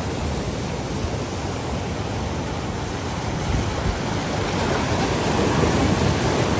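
Lake Michigan storm waves rushing and crashing on the shore in strong wind, a steady roar that swells louder near the end as a wave comes in.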